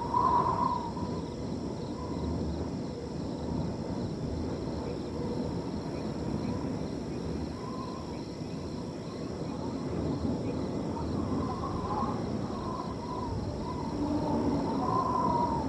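Wind blowing through a field, with crickets trilling steadily in the background. Short calls at one pitch come and go over the wind, the loudest just after the start and near the end.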